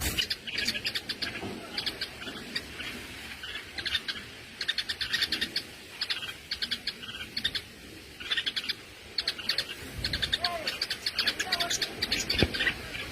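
Small birds chirping in quick, high-pitched bursts of rapid notes, over and over, from birds at a nest being raided by a snake.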